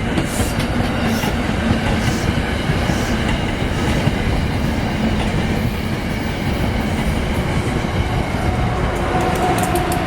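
A train rolling past close by: a steady loud rumble of wheels on rails, with faint steady tones from the wheels coming and going.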